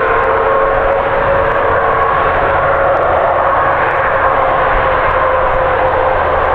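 Jet airliner engines running loudly: a steady roar with a high whine held over it.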